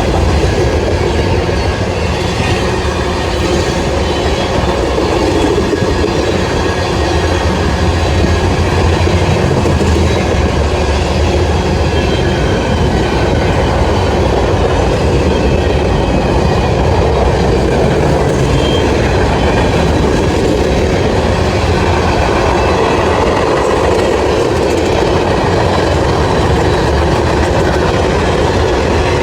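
Railroad cars rolling past at trackside: a loud, steady rush of wheel and rail noise with the clickety-clack of wheels over rail joints and faint thin wheel-squeal tones.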